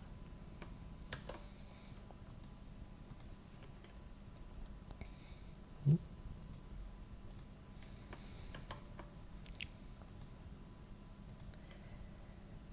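Scattered computer mouse clicks and light keyboard taps, quiet and irregular. About six seconds in there is one short, louder low sound rising slightly in pitch.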